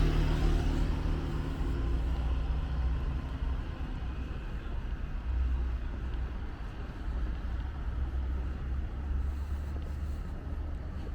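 A motor vehicle engine passing close by and fading away over the first few seconds, then a steady low rumble of traffic.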